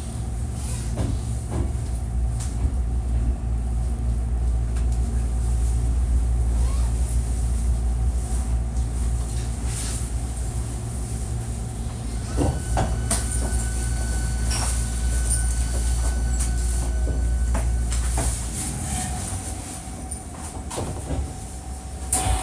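Hankyu 1300 series electric train heard from inside the car, running slowly into the terminus with a low rumble, sharp knocks of the wheels over rail joints and points, and a thin steady high tone during final braking. About 18 seconds in, the rumble dies away as the train comes to a stop.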